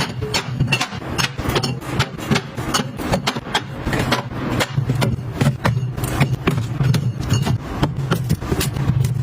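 Rapid, irregular clicks and clatter of small hard objects being handled and set down, over a steady low hum.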